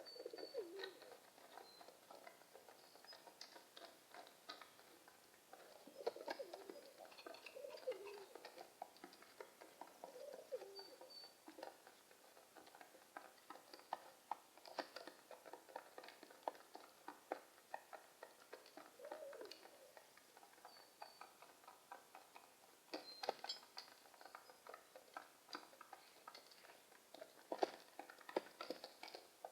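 Pigeons cooing softly in low, wavering calls that come every few seconds, among many small sharp ticks and taps and a few brief high chirps.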